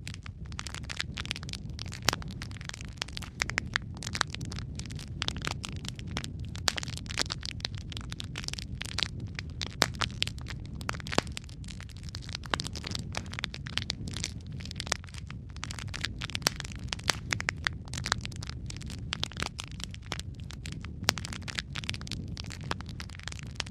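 Wood fire in a fireplace crackling, with sharp pops at irregular moments, several a second, over a steady low rumble.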